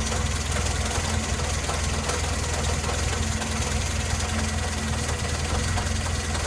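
Engine idling steadily with a rapid, even knocking that runs with its rotation: engine knock.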